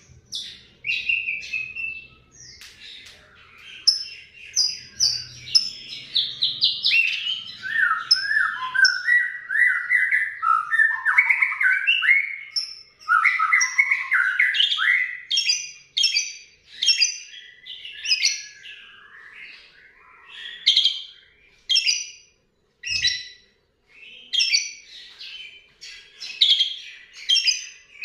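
Asian pied starling (jalak suren) singing a long, varied song of rapid chirps, whistles and chattering glides, with mimicked lovebird chatter worked in.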